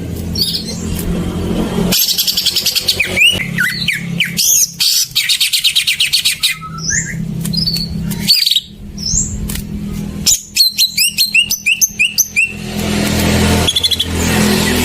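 Green leafbird (cucak ijo) singing a varied song of slurred whistles and rattling trills, with a quick run of repeated rising notes near the end, over a steady low hum.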